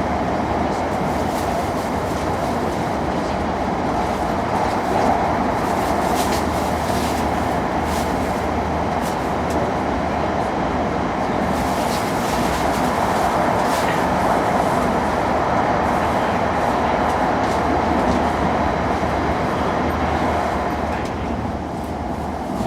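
Hokkaido Shinkansen train running along the line, heard from inside a passenger car: a steady rushing rumble with a few faint ticks now and then.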